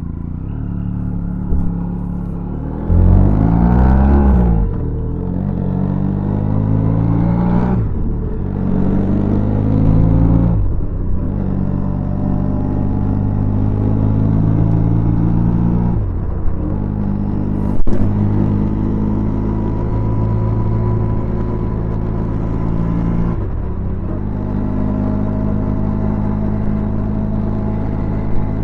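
Benelli TRK 502X parallel-twin engine idling through its stock exhaust, blipped several times so the note rises and falls. The biggest rev comes about three seconds in. A single sharp click comes about eighteen seconds in.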